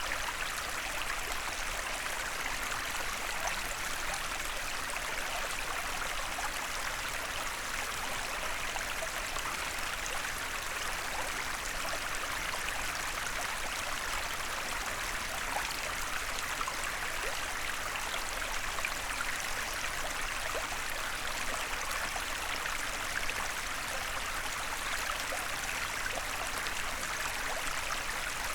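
Small forest stream flowing over stones: a steady babble and trickle of running water.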